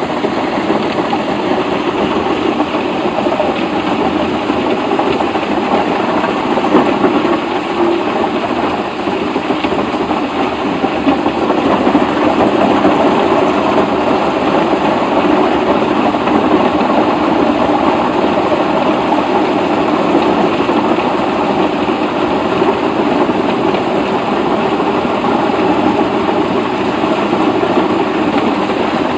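A heavy machine's engine running steadily under a dense mechanical clatter, a little louder from about twelve seconds in.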